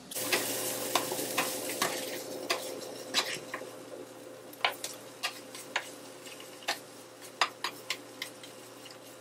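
Food frying in pans on a stovetop: a steady sizzle that gradually eases, with sharp pops and clicks scattered throughout.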